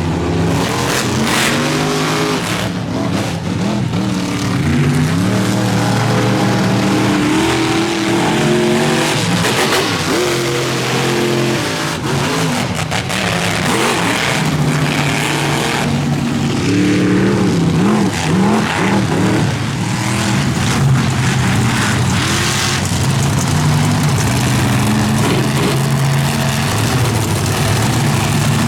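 Monster truck's big-displacement V8 engine running loud and revving, its pitch sweeping up and down several times.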